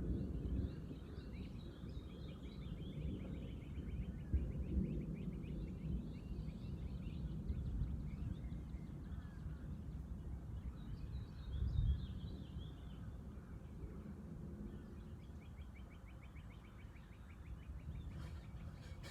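Wild birds singing outdoors in bouts of rapid, chattering trills, over a steady low outdoor rumble that swells briefly about twelve seconds in.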